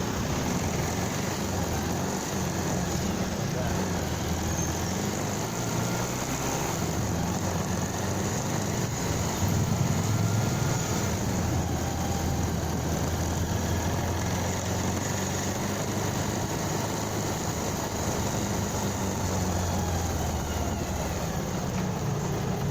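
Motorcycle engine running steadily on the move, with a slight swell in level about ten seconds in.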